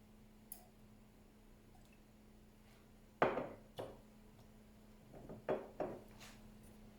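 Light knocks and taps of household objects being handled and set down: two sharper knocks a little after three seconds in, then a cluster of softer ones between five and six seconds, over a faint steady hum.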